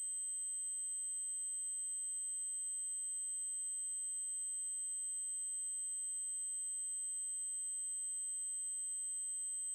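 Synthesized 8192 Hz triangle-wave test tone, one high-pitched tone held steady without change.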